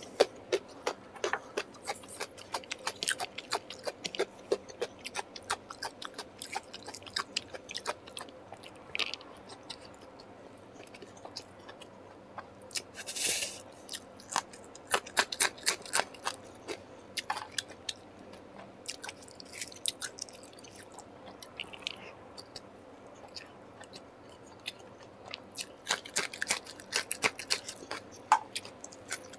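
A person eating close to the microphone: wet chewing, biting and small crunches in quick clicking runs, with a longer, louder noisy burst about 13 seconds in.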